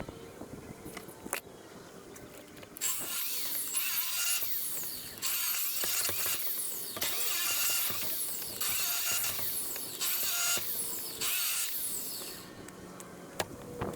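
Hand saw cutting through wood: a steady run of rasping back-and-forth strokes, about one a second, starting about three seconds in and stopping shortly before the end. Before the sawing starts there are a few scattered clicks.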